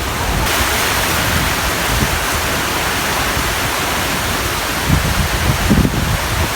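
Heavy rain pouring down in a steady, dense hiss that grows a little stronger about half a second in.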